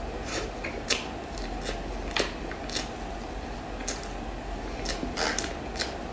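Close-miked mouth sounds of someone eating chocolate cream cake: scattered short clicks and smacks of chewing, over a steady low hiss.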